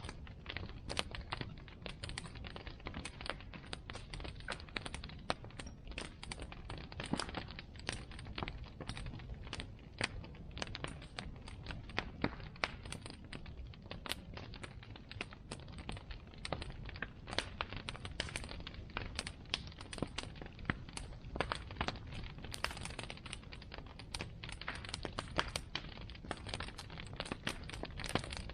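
Wood bonfire crackling: a steady, irregular stream of sharp pops and snaps over a low, even rumble of the flames.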